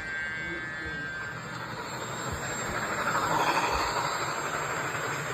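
Model train running on the layout track: a steady rolling rumble and hiss of wheels and motor that swells about three to four seconds in, with a thin high whine fading out in the first second and a half.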